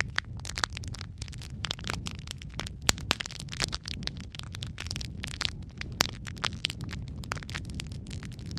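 Wood fire burning in a fireplace: a steady low rumble under dense, irregular crackling of burning logs, with sharper pops about three and six seconds in.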